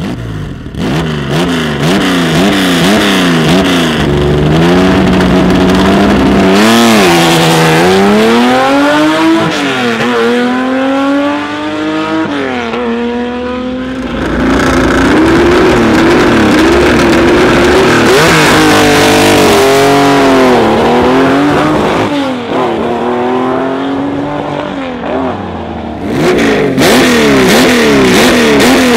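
Porsche 911 air-cooled flat-six rally engine revving hard, its note climbing and dropping again and again as it accelerates through the gears, with a few stretches held steady at high revs.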